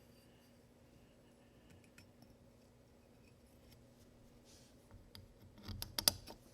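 Light clicks and clinks of small parts or tools being handled during a repair, with a quick cluster of sharper clicks and rattles near the end, over a faint steady hum.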